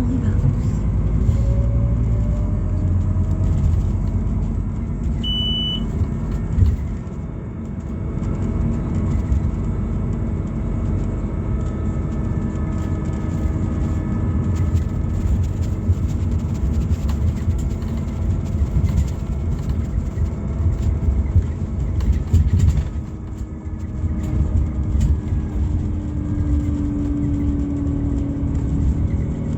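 Scania Citywide LFA natural-gas bus heard from on board, its Scania OC09 gas engine and ZF gearbox running under way with a steady low rumble. A whine rises in pitch over the first few seconds as the bus accelerates, and a short high beep sounds about five seconds in.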